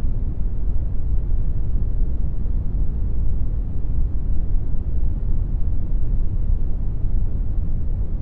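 Steady brown noise, a deep, even rumble-like hiss with most of its energy at the low end and little treble, unchanging throughout.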